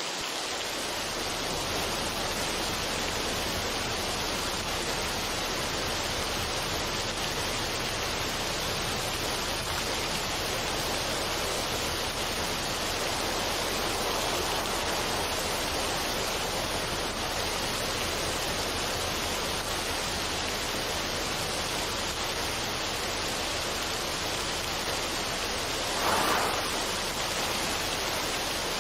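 Steady, even rushing noise, like a waterfall, with a short swell near the end.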